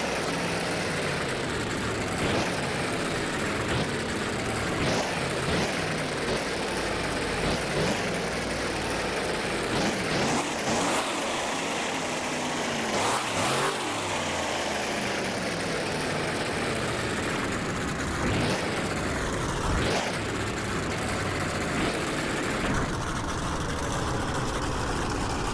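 Monster truck engine running hard, with a string of short, sharp throttle blips every few seconds, each one rising and falling in pitch.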